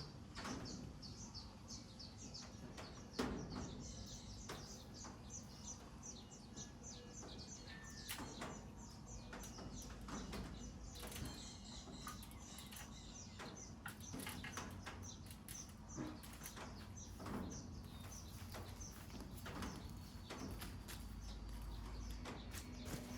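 Small birds chirping in quick series of short high notes, mostly in the first half, with scattered sharp knocks and clicks against a quiet outdoor background.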